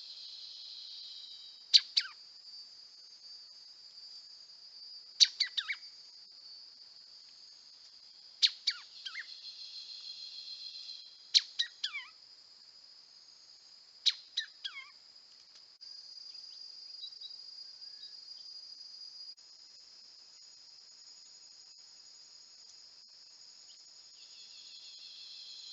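A bird calling five times, about every three seconds, each call a quick run of a few downward-sweeping notes. Behind it is a steady high-pitched insect chorus.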